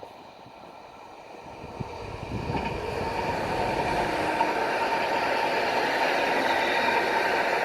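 Electric passenger train approaching and running past. The sound of its wheels on the rails grows louder over a couple of seconds and then holds steady, with a faint steady whine.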